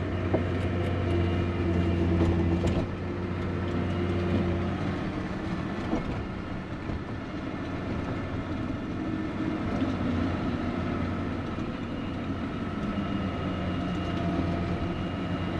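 An old snowcat's engine running steadily with a low drone while the machine works through deep snow. A few light clicks come in the first few seconds, and the engine note eases slightly about three seconds in.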